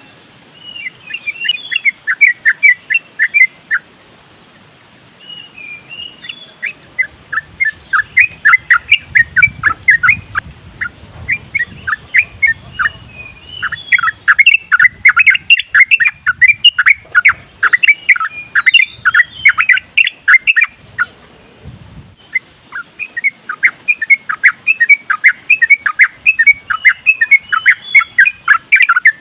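Yellow-vented bulbul (trucuk) singing in fast, continuous chattering runs of quick notes. There are short pauses between phrase groups. A low rumble of wind sits under the song through the middle.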